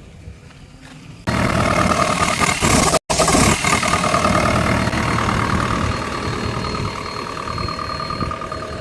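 Heavy diesel engine running loudly with a steady whine over its rumble. It cuts in abruptly about a second in after a faint low rumble, with a split-second dropout near the middle.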